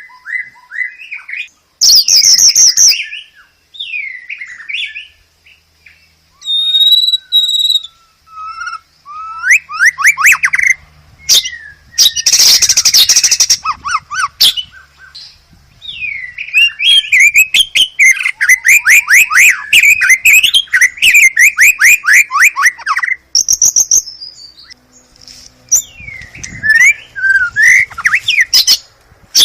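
White-rumped shama (murai batu) song in separate phrases: clear whistles and sliding notes, harsh rasping bursts near the start and about twelve seconds in, and a long run of fast repeated notes from about seventeen to twenty-three seconds.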